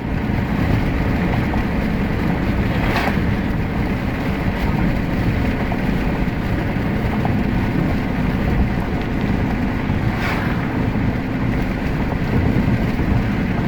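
Steady rumble of a car driving at road speed, heard from inside the moving car: tyre, engine and wind noise, with two brief clicks, about three seconds in and again near ten seconds.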